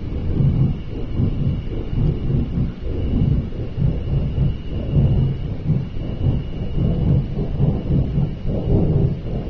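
Deep, loud rumbling that pulses unevenly and continuously, of unknown origin; the pulses are strong enough to be felt in the ground and seem to come from the sky. It sounds like a giant flame.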